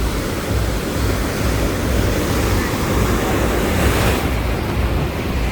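Sea surf washing steadily against the pier, with wind buffeting the microphone.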